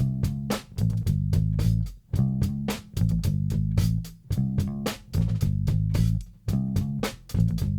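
Instrumental rock music: a bass guitar riff with guitar over a steady beat, the phrase breaking off briefly about every two seconds.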